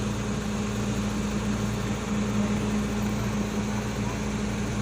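A large engine running steadily with an even, low hum.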